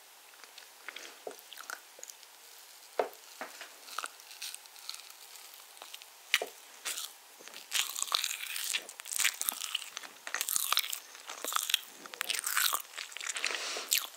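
Close-miked chewing and biting of a piece of iced spiced orange cake. Scattered small clicks and mouth sounds come first, then from about halfway a dense run of crackly chewing.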